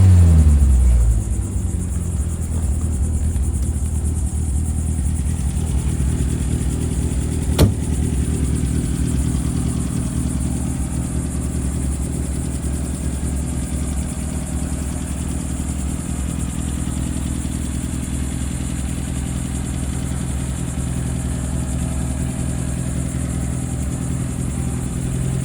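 A 1954 MG TF's four-cylinder engine dropping from a blip of revs in the first second into a steady idle. A single sharp click sounds about a third of the way through.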